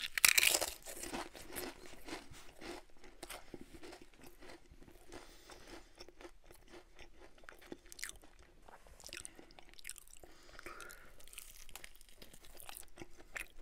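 Close-miked crunch of a bite into a Ruffles All Dressed ridged potato chip, loudest in the first second, followed by steady crunching and chewing. Near the end, a bite into a sauce-coated chicken wing.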